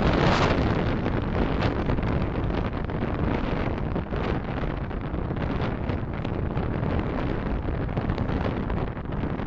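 Steady road and wind noise of a car driving, picked up by a dashcam microphone, with brief swells from passing traffic.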